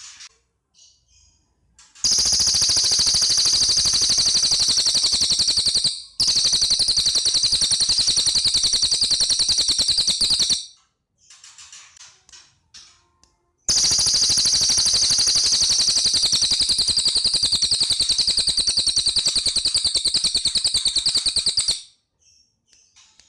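Cililin (lesser racket-tailed drongo) singing: two long, loud, very rapid machine-gun-like rattling trills of about eight seconds each. Short, softer chirping phrases come before and between them.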